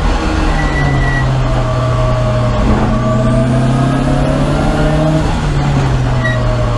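In-car sound of a Lancia Delta HF Integrale's turbocharged four-cylinder race engine, loud and steady. Its pitch drops as the car slows hard from about 80 mph for a corner, then climbs gradually as it pulls away. A faint high whistle rises through the middle.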